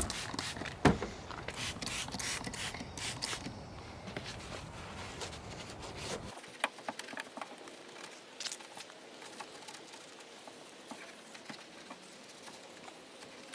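Scattered light clicks, taps and rustling of hands cleaning around a car's trunk-lid spoiler mounting. A low background rumble drops out abruptly about six seconds in, leaving only sparse clicks.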